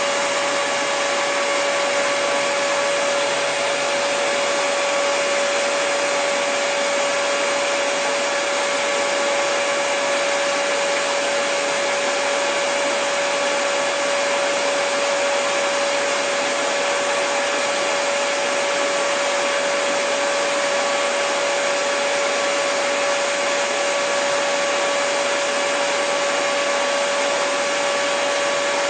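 Hair dryer running steadily: an even rush of blown air with a constant pitched whine from its motor.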